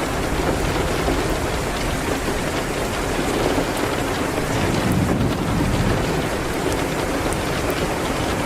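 Steady rain hitting a window, with scattered faint sharp ticks. A low rumble swells about five seconds in and fades.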